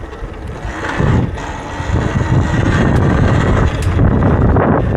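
Wind buffeting the microphone with the rumble of a Talaria electric dirt bike riding a trail, getting louder about a second in as the bike speeds up.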